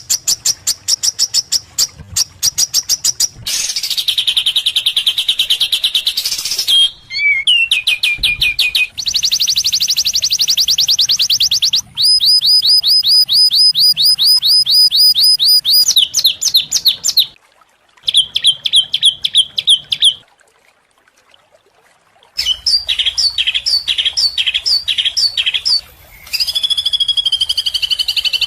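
An edited sequence of songbird calls of several kinds: fast trills, rapidly repeated high notes and falling whistles, each phrase cut off sharply and replaced by another every few seconds. About two-thirds of the way through there is a silence of about two seconds, then chopped repeated notes and a continuous warbling song near the end.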